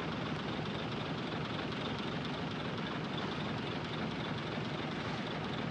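Heavy diesel earthmoving machinery running steadily, a continuous engine and mechanical noise with no distinct knocks or changes.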